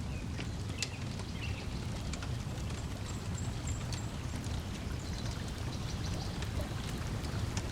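Wood fire crackling with scattered sharp pops over a steady low wash of lake water lapping.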